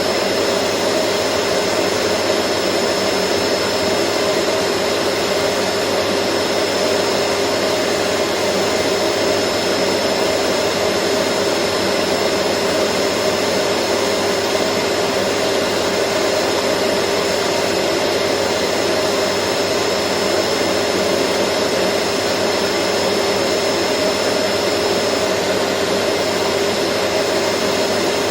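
Vacuum cleaner running continuously at steady speed: a dense, even whooshing with a steady hum and a thin high whine, never changing.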